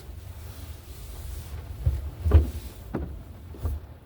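Car engine running, heard from inside the cabin as a steady low rumble, with several short clunks and knocks from handling things in the car.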